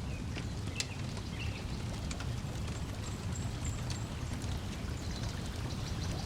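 Wood fire crackling with scattered sharp pops over a steady low rumble of lake waves lapping at the shore. A faint high bird chirp comes about three seconds in.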